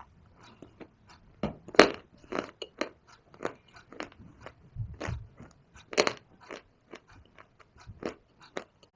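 Dry shale stone and Punjab clay (mitti) being bitten and chewed close to the microphone: a string of sharp, crisp, irregular crunches, loudest at about two seconds and again at six seconds in.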